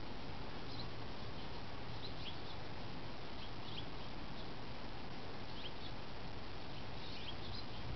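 Steady background hiss with many short, faint, high chirps of small birds scattered throughout.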